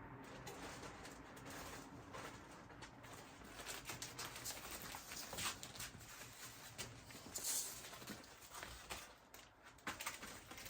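Fish deep-frying in hot oil: a faint steady sizzle with many scattered small pops and crackles.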